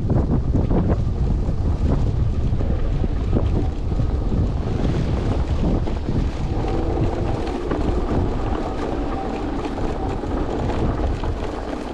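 Strong wind buffeting the microphone with a heavy, steady rumble during a ride in a blizzard. A faint hum joins about five seconds in.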